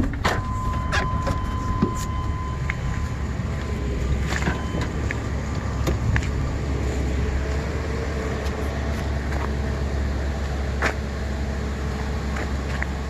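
Steady low engine and road rumble inside a van driving along a rough road, with scattered light clicks and rattles. A thin steady high tone sounds for the first few seconds.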